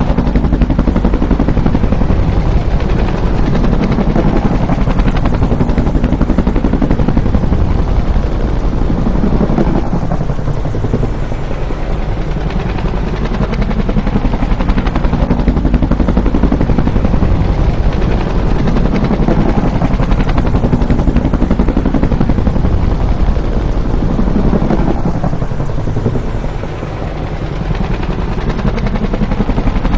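Bell UH-1 Huey helicopter flying past, its two-blade rotor beating loudly over the turbine noise. The sound eases off twice and swells again.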